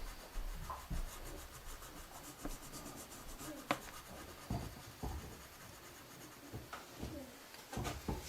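Pencil scratching and rubbing on paper in short, irregular strokes as dark shading is laid in.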